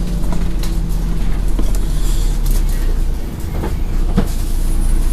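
Scania N113 bus heard from inside while under way: a steady low engine and drivetrain rumble, with a few sharp knocks and rattles from the body.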